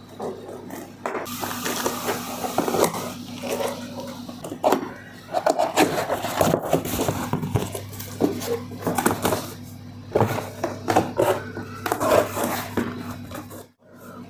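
Hands unboxing a sound bar: cardboard box and packaging being opened and pulled out, with irregular scrapes, rustles and knocks over a steady low hum.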